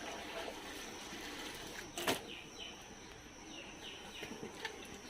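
Clothes being soaked in a bucket of detergent water, quietly handled, with one sharp splash-like knock about two seconds in. A few faint, short falling chirps come twice in the middle.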